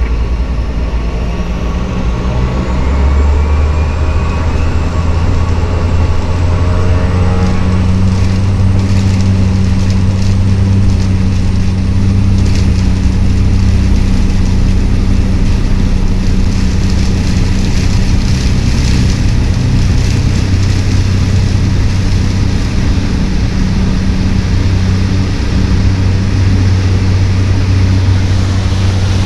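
Cessna 208 Caravan's Pratt & Whitney PT6A turboprop and propeller running loud and steady, with a rising whine and an increase in power over the first few seconds.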